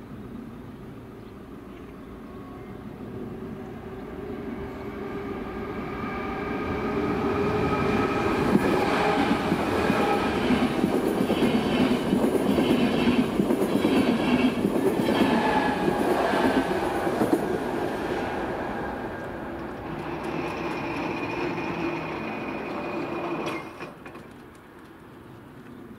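Double-deck electric passenger train passing over a level crossing: the rumble builds over several seconds, the wheels clatter over rail joints for about ten seconds, then the sound fades. A steady buzz from the crossing's warning buzzer runs beneath it and cuts off suddenly near the end.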